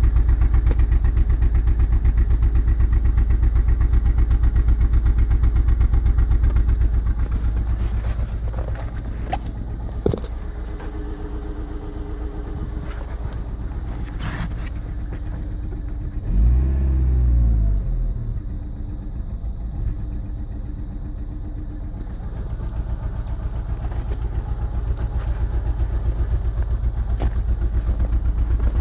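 Volkswagen Golf IV 1.6 SR eight-valve four-cylinder petrol engine idling cold, with one short blip of the throttle about 16 seconds in. The running fault is leaking intake manifold gaskets.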